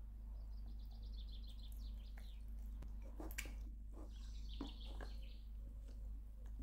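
A songbird chirping in two short runs of quick repeated high notes, faint. A few clicks and soft squelches come from hands mixing wet pizza dough in a plastic tub, over a steady low hum.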